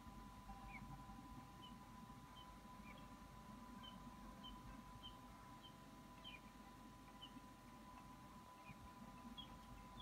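A bird's faint, short, slightly falling high peeps, repeating roughly every half second to a second, over a steady faint hum; otherwise near silence.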